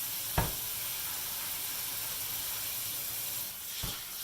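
Steady hiss of food cooking on the stove, with one sharp knock about half a second in and a duller thump near the end.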